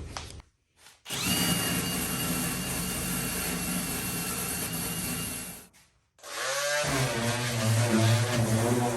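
Electric drill spinning a small wire brush, scrubbing old sealant out of the rivets of an aluminium boat hull, with a steady whine. It stops about six seconds in, then starts again, spinning up and running on.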